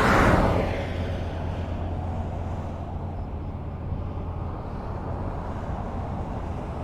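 Highway traffic: a vehicle passes close by just at the start, its tyre and engine noise swelling and fading over about a second. After that, a steady low rumble of more distant traffic.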